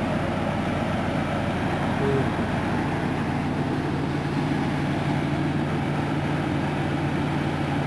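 Jeep engine idling steadily, with the hiss of a vacuum leak.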